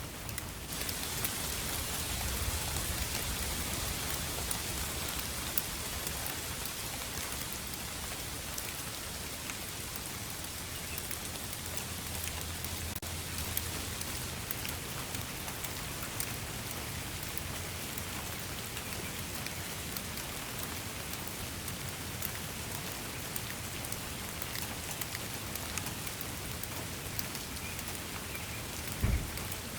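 Steady rain falling, a continuous hiss scattered with many fine ticks of individual drops; the hiss gets brighter about a second in. A brief low thump comes about a second before the end.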